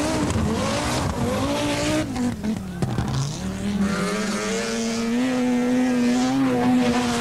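Group B rally car engine revving hard, its pitch rising and falling through gear changes, dipping briefly as the throttle lifts, then held at steady high revs for the last few seconds.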